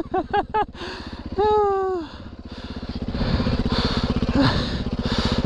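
Four-stroke dirt bike engine running at low revs, then growing louder and fuller over the last couple of seconds as the throttle is opened.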